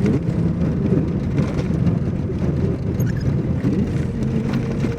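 Motor vehicle running steadily, its engine hum carried over a low rumble of road noise.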